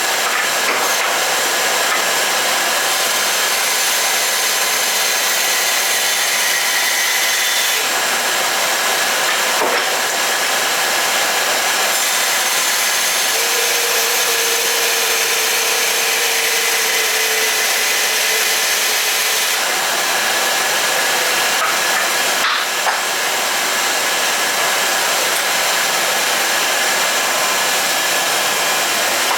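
Craftsman 12-gallon shop vacuum running at full suction: a steady, loud rush with a few brief clicks. It is switched off at the very end and begins to wind down.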